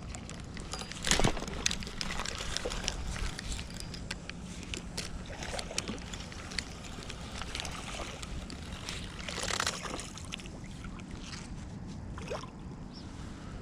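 Water sloshing and splashing beside a small boat, with two louder splashes about a second in and around two-thirds of the way through, and scattered small clicks.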